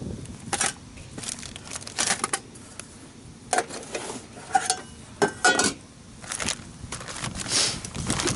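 Irregular rustling and clattering of gear being handled, with a few brief metallic clinks like cookware knocking together.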